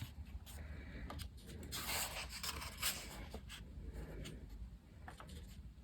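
Pages of a colouring book being turned and handled: several soft, short paper rustles and brushes spread through.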